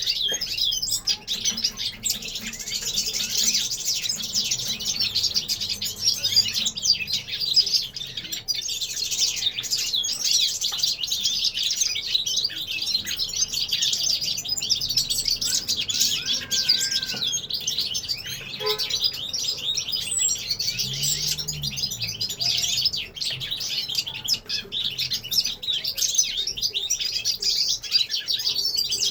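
Many caged finches singing all at once in a dense, unbroken chorus of fast twittering chirps and trills.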